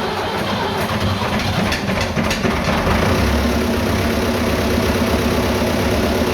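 Diesel tractor engine cranking on the starter, then catching about three seconds in and settling into a steady idle. The earlier no-start was down to an empty fuel tank.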